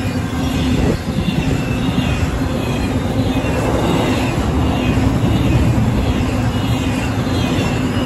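Intermodal freight train passing: a steady rumble of double-stack container well cars and trailer flatcars rolling over the rails, with a steady low hum under it.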